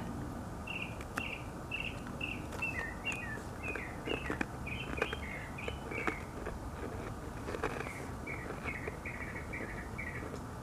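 A songbird singing a long series of short, repeated chirps, about two notes a second, with a short pause partway through. A few faint crisp snaps around four to five seconds in come from a butter biscuit being broken in half by hand.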